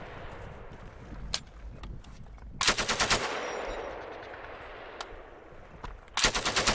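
7.62 mm M240 machine guns firing two short rapid bursts, about two and a half seconds in and again near the end, each followed by a rolling echo. A couple of lone sharp shots crack in between.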